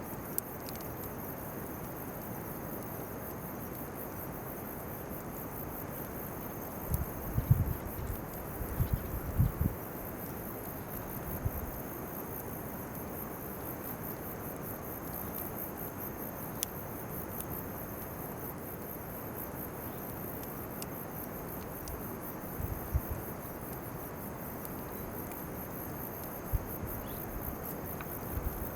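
Crickets chirring steadily in a high, fast-pulsing trill. A few low thumps come between about 7 and 10 seconds in and again around 23 seconds, and there are a couple of faint sharp clicks.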